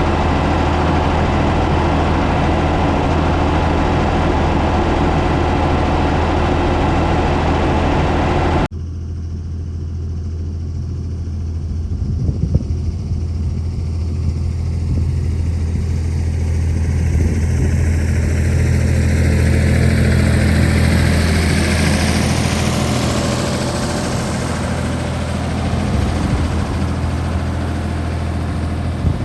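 Ford 555 backhoe loader's engine running steadily. The sound changes abruptly about a third of the way in, and a higher hiss swells and fades in the second half.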